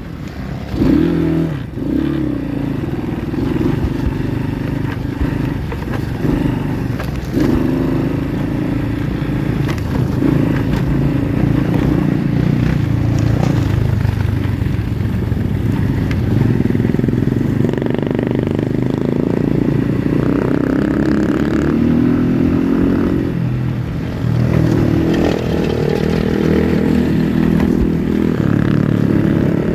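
Pit bike's single-cylinder engine running while riding, its pitch rising and falling with the throttle, with a few knocks near the start.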